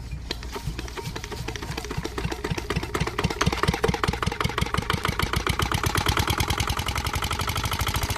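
Small tractor engine running with a rapid knocking beat that speeds up and grows louder over the first few seconds, then holds steady.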